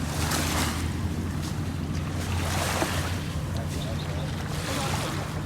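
Jet ski engine running with a steady low hum, with wind buffeting the microphone in gusts.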